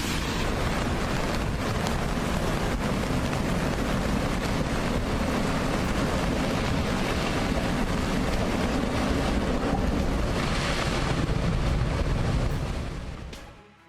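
Steady roar of rushing, turbulent water with wind buffeting the microphone, fading out near the end.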